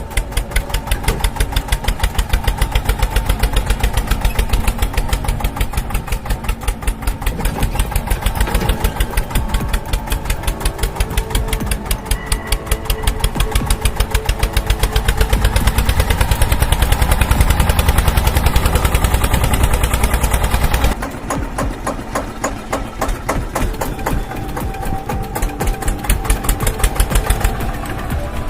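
DIY mini tractor running, its motor making a rapid, even chugging like a small engine. About three-quarters of the way through the deep low rumble drops away while the chugging carries on.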